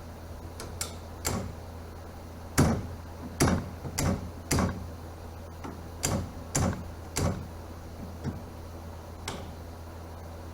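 About a dozen sharp knocks and clanks at an irregular pace, the loudest two about two and a half and three and a half seconds in, over a steady low hum.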